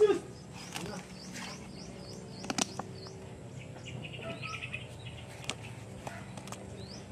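Small birds chirping repeatedly, short rising calls, with a brief loud sound right at the start and a sharp tap about two and a half seconds in.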